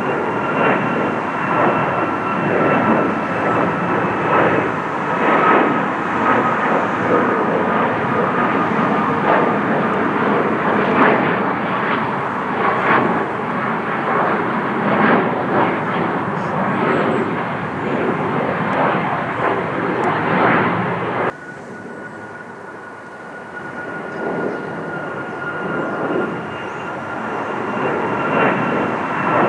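Jet airliner flying low overhead: a steady engine roar with a whine that slowly falls in pitch. About two-thirds of the way through, the sound cuts off suddenly to a quieter stretch of aircraft noise, which grows louder again with the same falling whine.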